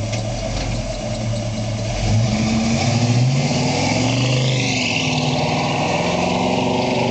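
A vehicle engine running on the road. About two seconds in it rises in pitch as it accelerates, then eases off and holds steady.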